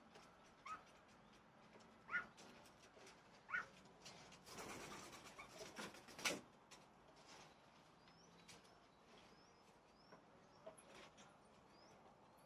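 Faint bird sounds: three short calls about a second and a half apart, a brief flurry like wing flapping or rustling around five seconds in, then several faint, high, quick chirps.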